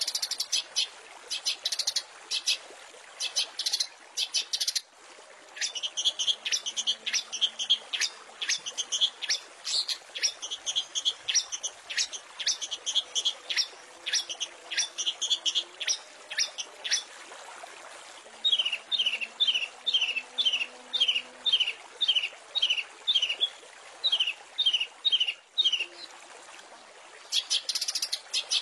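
Long-tailed shrike (cendet) singing a fast series of sharp, chattering notes, then from about 18 s a run of short repeated slurred notes about two a second, with a brief pause before a final burst.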